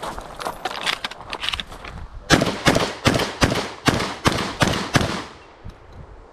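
Beretta 1301 semi-automatic 12-gauge shotgun fired in a fast string of about eight shots a third of a second apart, starting about two seconds in, after a run of lighter sharp knocks.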